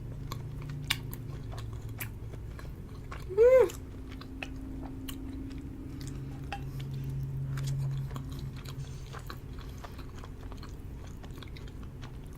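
A person chewing soft cheese-and-potato pierogies close to the microphone, with many small wet mouth clicks and smacks. There is a short, loud pitched sound about three and a half seconds in.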